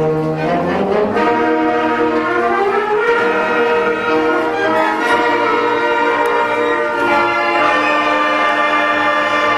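School concert band playing, with held chords that move from one to the next. The sound thins out right at the end.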